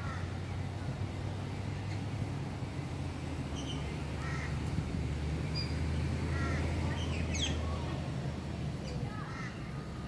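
Bird calls, short and repeated a few times, about four, six and a half and nine seconds in, over a steady low hum.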